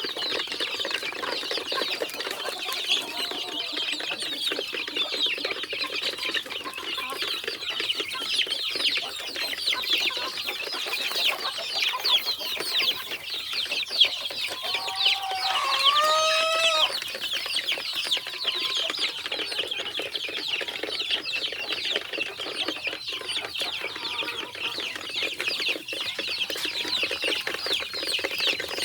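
A flock of Dominant CZ hybrid chickens clucking and chirping steadily, with one longer, louder call a little past halfway.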